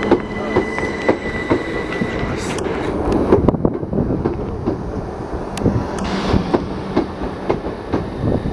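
Passenger train moving along the track with a steady rumble and repeated sharp clicks of wheels over rail joints. A steady high tone sounds through the first two and a half seconds, then stops.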